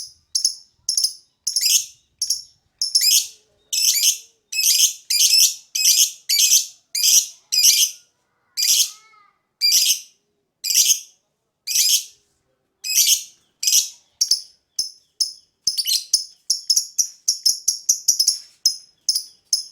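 Lovebird chirping: a long string of high-pitched, repeated chirps, longer and more spaced through the middle and quickening into rapid short chirps near the end.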